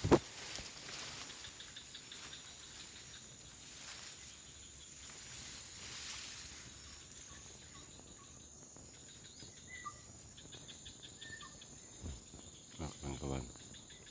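Tropical forest insects keep up a steady high whine, joined in the second half by fast, rhythmic pulsing chirps. A few short, faint chirps come in about two-thirds of the way through.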